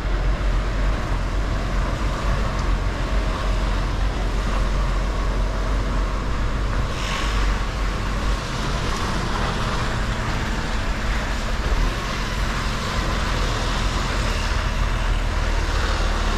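Mercedes-Benz Actros L truck's diesel engine running steadily at low revs, a constant low rumble under an even hiss of tyre and road noise.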